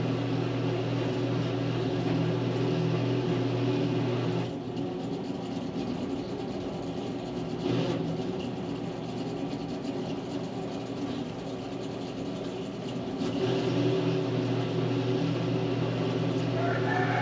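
Electric welding machine humming steadily, with a light hiss over it. It drops quieter about four seconds in and picks up again near the end.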